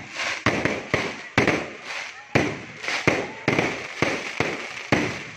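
Aerial fireworks going off in quick succession: sharp bangs about two a second, each trailing off in an echo.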